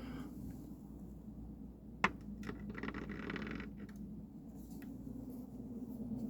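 Handling of a stone artifact: one sharp click of hard stone about two seconds in, followed by a second or so of rubbing and rustling, with a low steady hum underneath.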